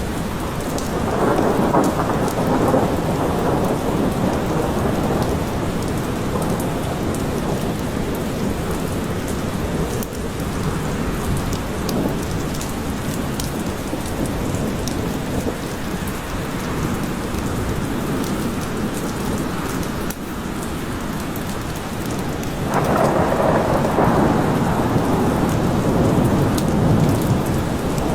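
Steady rain falling in a forest, with scattered drop ticks, and thunder rolling in a low rumble about a second in and again near the end.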